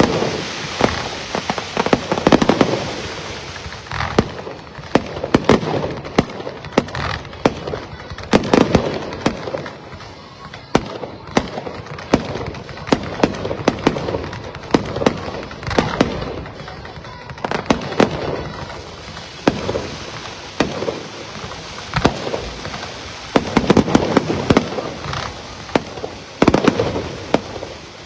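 A long run of sharp bangs and crackles, dense and irregular, with deeper, louder booms every few seconds.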